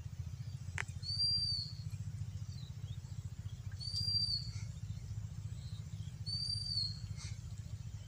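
A bird repeats a short, high call about every two to three seconds over a steady low rumble.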